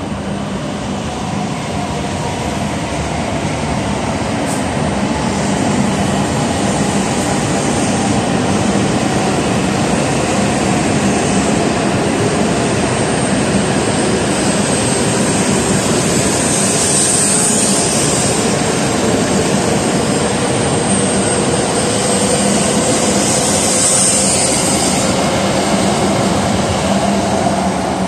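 W7-series shinkansen train pulling out and accelerating past at close range: a steady rush of wheels and air, with a faint gliding motor whine. It grows louder over the first few seconds, then holds.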